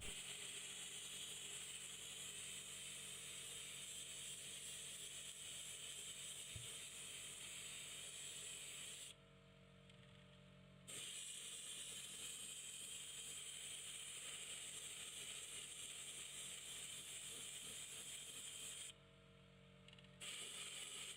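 Airbrush spraying a light grey top coat in a steady hiss over a low hum. The hiss cuts out briefly twice, once about nine seconds in and once near the end.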